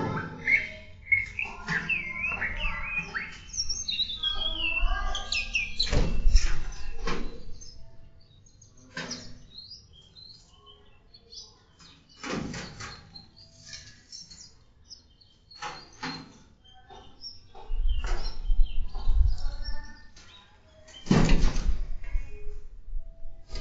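Small caged songbirds in an aviary chirping and warbling, busiest in the first eight seconds and then thinning to scattered calls. Several sharp thumps come through, the loudest about six, twelve and twenty-one seconds in.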